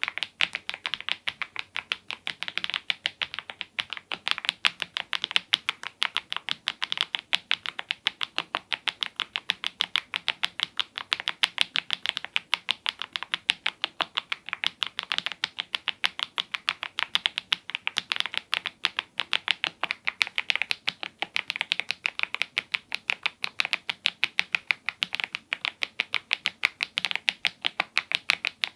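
Continuous fast typing on a mechanical keyboard fitted with Smile-profile PBT-style keycaps on HMX Cheese switches: a dense, even stream of key clacks, several strokes a second throughout.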